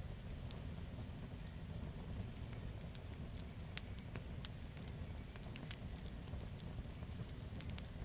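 Campfire burning, with irregular sharp crackles and pops several times a second over a low steady rumble.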